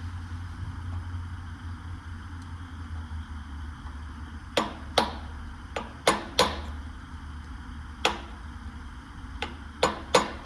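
A hammer tapping a flathead screwdriver to break apart the old carburetor from a Craftsman V-twin lawn mower engine: about nine sharp metallic taps in irregular clusters, starting a little under halfway through.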